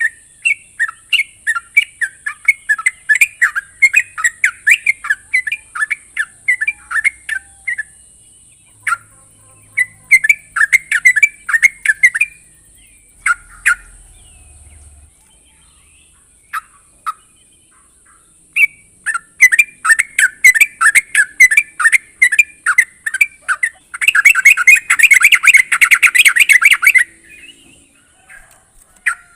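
Yellow-vented bulbul calling in rapid runs of short, bubbling notes, a few a second. The calls thin out to scattered single notes for several seconds midway, then return, with a dense burst of chattering near the end. A steady high hiss sounds throughout.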